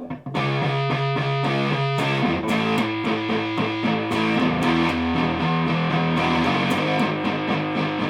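Electric guitar through a Donner Dark Mouse distortion pedal (a RAT-style distortion) into a Marshall valve amp, playing a riff that starts just after the opening with many short palm-muted notes.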